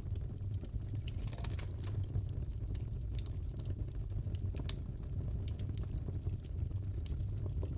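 Wood fire crackling in a fireplace: a steady low rumble of burning with many irregular small pops and snaps.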